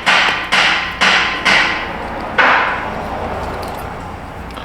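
A run of sharp metallic strikes like a hammer, about two a second, then a last blow about halfway through that rings and fades away in a reverberant shop.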